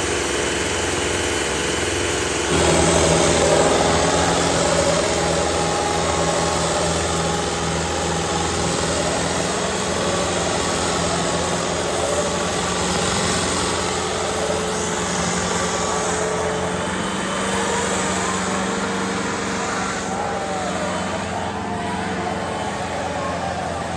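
Diesel tractor engine running loudly and steadily.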